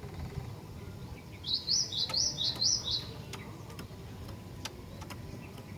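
Female cinereous tit (glatik batu) calling: a quick phrase of three high repeated notes lasting about a second and a half, starting about a second and a half in, over a steady low background hum with a few faint clicks.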